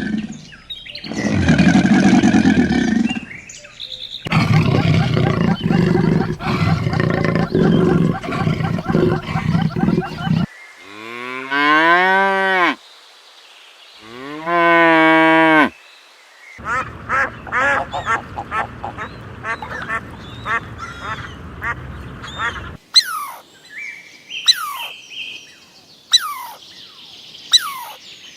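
A run of different farm animal calls. It opens with noisy, dense calling, then two long calls that rise and fall in pitch, each about two seconds. After that come many short, rapid calls, and it ends with sharp clicks and quick falling chirps.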